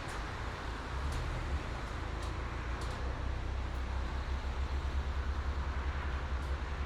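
Highway traffic: a steady wash of tyre and engine noise with a low rumble that swells and throbs through the second half, and a few faint brief ticks.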